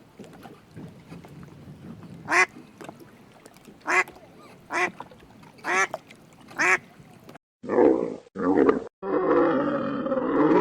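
A duck quacking, five single quacks spaced about a second apart. Near the end a different animal's louder, harsher grunting calls take over.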